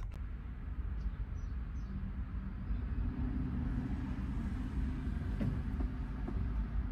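Steady low rumble of motor vehicles: engine and road-traffic noise with no sudden events.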